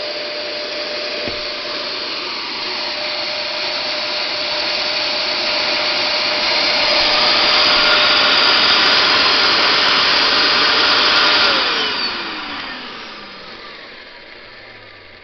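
Hoover Max Extract 77 carpet cleaner's suction motor running with its floor head lowered onto vinyl and blocked, growing louder over several seconds. At about 11.5 s the motor winds down, its whine falling in pitch as the noise fades.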